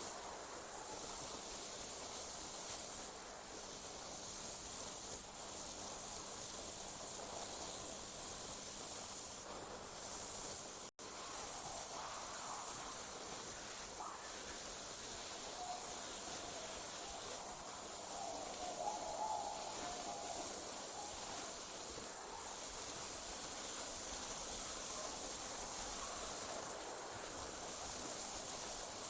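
Night insects, crickets, trilling in a steady high-pitched chorus that pauses briefly every few seconds, with a momentary drop-out about eleven seconds in.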